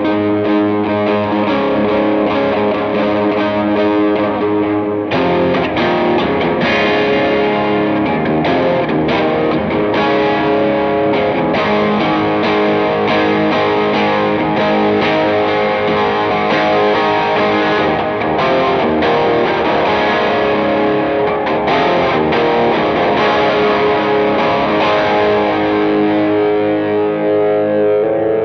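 Gibson Les Paul 50s Tribute electric guitar with P90 pickups, played through an effects pedalboard. Held chords ring for the first five seconds, then the playing turns to picked chords with sharper attacks.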